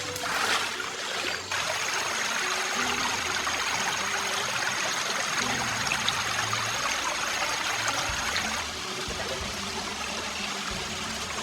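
Forest stream water running and trickling steadily, a little quieter for the last few seconds.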